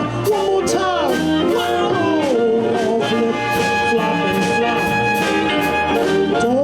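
Blues band playing a shuffle, with a blues harmonica taking the lead. It plays bent notes for the first couple of seconds, then long held notes, over guitar, bass and drums with a steady cymbal beat.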